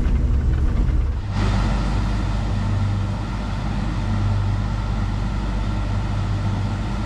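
Diesel engine of a Case IH 2388 combine running steadily, heard as a low drone. A little over a second in the drone shifts in pitch and a steady hiss rises over it.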